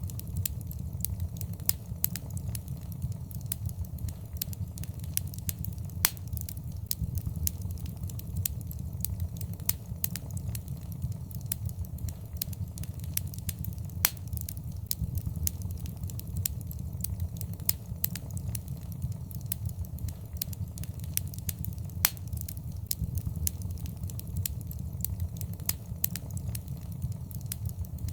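Wood fire crackling in a fireplace: a steady low rumble under frequent sharp pops and snaps, a few of them louder.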